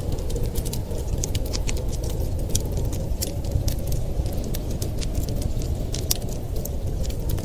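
Wood fire crackling in a fireplace, many sharp irregular pops and snaps, over a steady low rumble.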